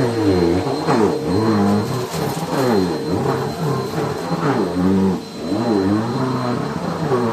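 Bissell PowerForce Helix Turbo upright vacuum cleaner running with a steady high whine, its lower tone repeatedly dipping and rising in pitch about once a second while it vacuums the floor.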